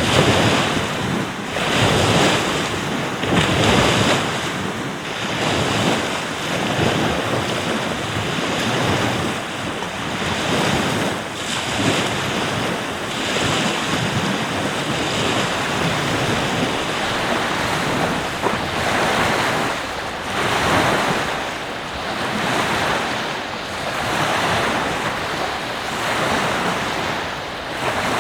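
Ocean surf breaking and washing in, swelling and easing every few seconds, with wind gusting on the microphone.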